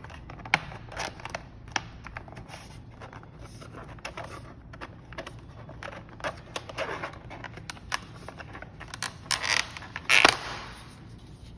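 Double-hung window parts being handled and fitted by hand: scattered light clicks and taps, then two louder scrapes toward the end.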